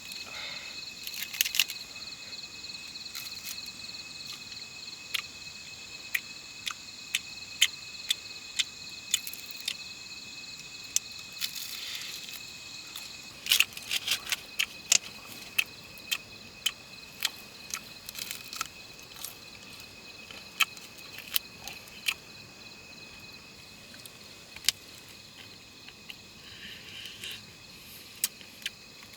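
Steady insect chorus, crickets trilling in several high-pitched bands, with irregular sharp clicks and snaps scattered through it, thickest about halfway through.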